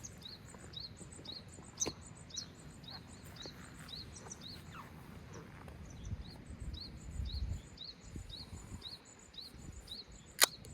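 A bird calling a short rising chirp over and over, about two a second, over faint background noise; a single sharp click stands out near the end.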